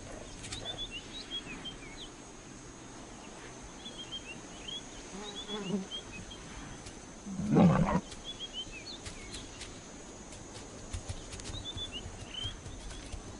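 A big cat growls once, loudly, about seven and a half seconds in, after a softer growl a couple of seconds earlier. Small birds chirp faintly in the background.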